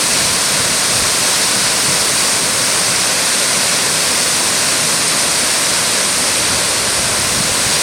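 Naso no Shirataki waterfall: a loud, steady rush of falling water, even throughout.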